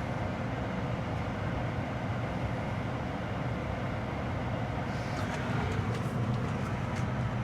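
Furnace circulating blower motor running steadily with a low hum while the inducer motor is off. A few faint light clicks come in about five seconds in.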